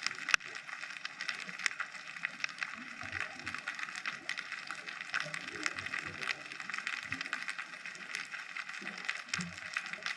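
Underwater ambience recorded on a scuba dive: a steady crackle of countless tiny clicks, with a sharper click just after the start and faint irregular low bubbling sounds now and then.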